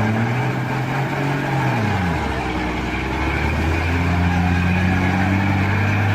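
A truck's engine running, its pitch dropping about two seconds in as it eases off, then picking up slightly and holding steady.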